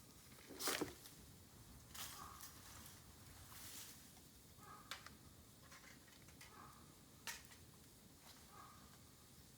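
Bamboo burning in an open fire: faint crackling with a few scattered sharp pops, the loudest about a second in.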